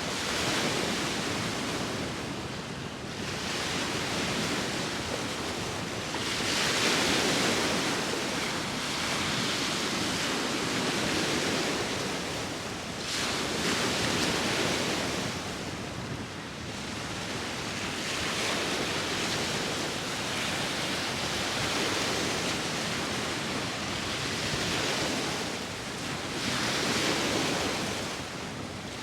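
Sea waves breaking and washing ashore, swelling and fading every six to seven seconds, with wind blowing throughout.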